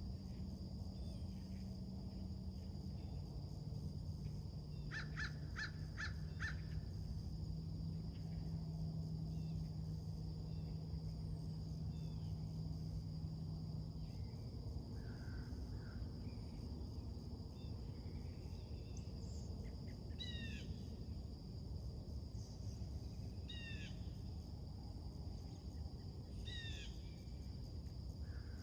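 Birds calling in the open: a quick run of about five calls about a quarter of the way in, then near the end a harsh, falling call repeated every three seconds or so. Under them runs a steady high insect drone and a low rumble.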